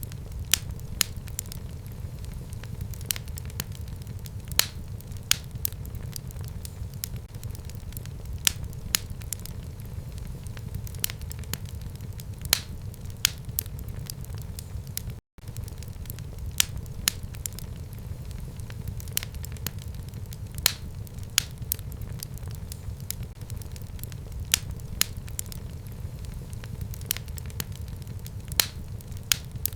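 Wood fire burning in a fireplace: a steady low rumble with irregular sharp crackles and pops from the burning logs. The sound breaks off for an instant about halfway through.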